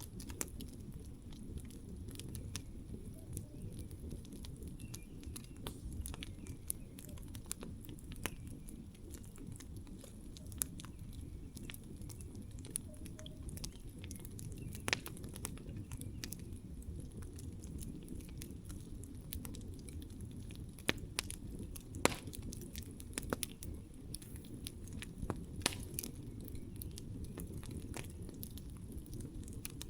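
Campfire burning: a steady low rumble of flames with irregular sharp crackles and pops of burning wood, a few louder pops scattered through.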